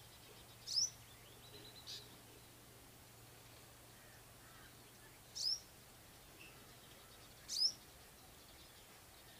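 A bird calling: three short, sharp calls that sweep down and back up in pitch, spaced a few seconds apart, with a softer call soon after the first, over a faint steady hum.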